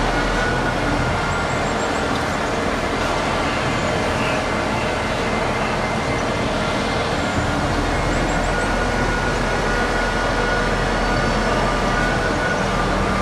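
Steady urban construction-site din of machinery and traffic: an even rumble and hiss with a few faint whining tones held through it, and brief faint high chirps twice.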